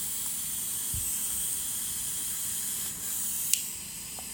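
Steady high-pitched hiss, with a single sharp click about three and a half seconds in.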